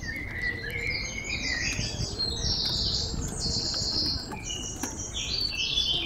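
Several small birds chirping and singing in quick, overlapping phrases, over a steady low rumble from the moving bicycle.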